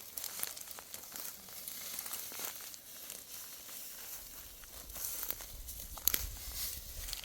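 Dry wheat stalks rustling and crackling as they are handled, with a run of small crisp crackles and a few sharper ones near the end.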